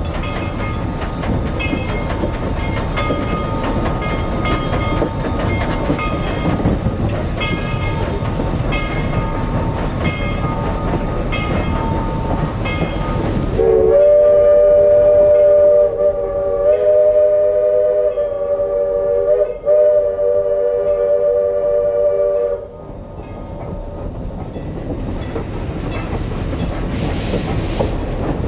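Train running with a steady rumble and regular clicks, then the chime steam whistle of 2-4-4-2 locomotive #7 "Skookum" sounds a loud chord for about nine seconds, sliding up to pitch at the start and broken by a couple of brief gaps, before the running noise carries on more quietly.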